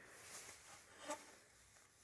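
Near silence, with a faint rustle and one short click about a second in.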